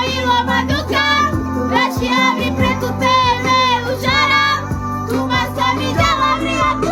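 Romani love song: a high solo voice sings a melody with strong vibrato over instrumental backing with a steady bass line.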